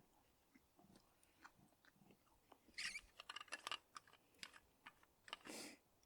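A person eating a fire-toasted cheese sandwich: faint biting and chewing, with a quick cluster of small crisp sounds about three seconds in and another short burst near the end.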